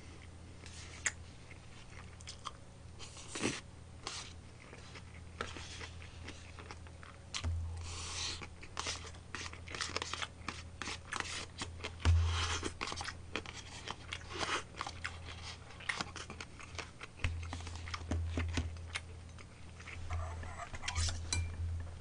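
Close-up chewing of food, with wet mouth sounds and short clicks of a metal spoon against a plastic bento tray.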